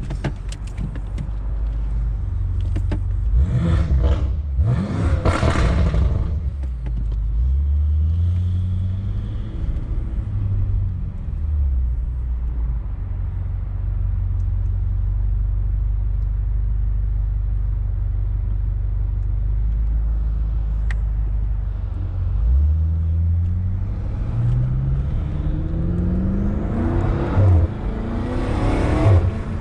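BMW M5 Competition's twin-turbo V8 with a loud exhaust, driving: a couple of loud surges of acceleration a few seconds in, a steady cruise through the middle, then the engine pitch climbing in steps near the end as the car pulls through the gears.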